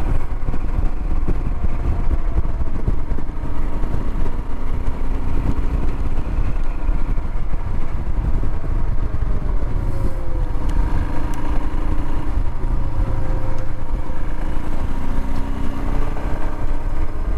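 Royal Enfield Himalayan single-cylinder motorcycle running on the move, under a heavy low wind rumble on the microphone. Its engine note drifts slowly up and down.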